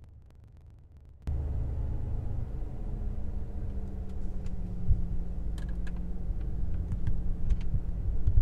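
BMW X5M's twin-turbo V8 idling, heard from inside the cabin as a low steady rumble with a hum. It comes in abruptly about a second in, after a quieter start, with a few light clicks over it.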